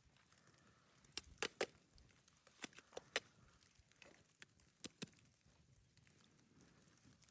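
A run of about eight sharp clicks and knocks in small groups over near silence, starting about a second in and stopping after about five seconds.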